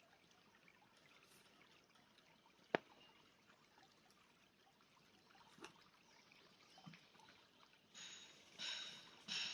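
Faint steady murmur of a river stream, with one sharp click about three seconds in and a few small ticks. Near the end come several short, louder splashy bursts of water.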